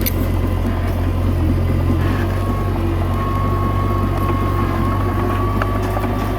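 Komatsu D21A crawler bulldozer's diesel engine running steadily, a deep even drone with a thin high whine over it and a few sharp clicks at the start.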